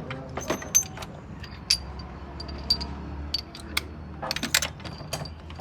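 Metal hand tools clinking and tapping irregularly against each other and on metal parts, a dozen or so sharp clicks with short metallic rings, over a steady low hum.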